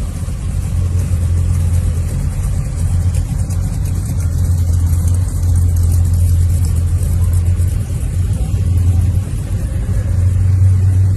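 A car engine running at a steady pace with a constant low drone, the car under way.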